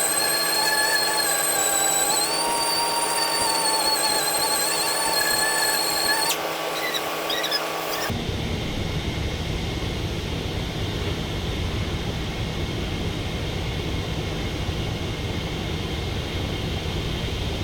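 A steady high-pitched whine from a small motor, wavering slightly in pitch. About eight seconds in it cuts off suddenly and a steady rushing noise takes over.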